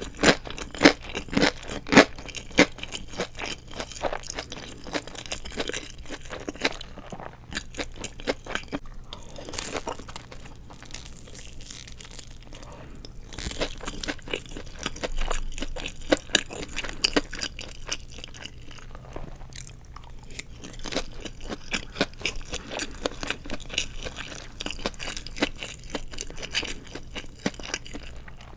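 Close-up crunching and chewing of deep-fried seaweed rolls filled with glass noodles: crisp crackling as the fried shell is chewed, with a few loud crunches in the first couple of seconds.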